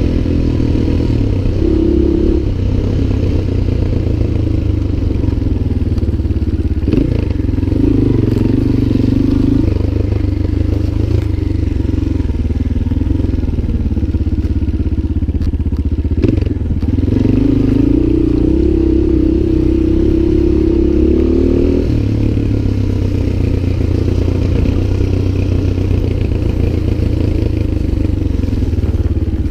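Lifan LF200GY-5 enduro motorcycle's single-cylinder engine running while being ridden, the revs rising and falling with the throttle and held higher for a few seconds past the middle, with a couple of clattering knocks from the bike.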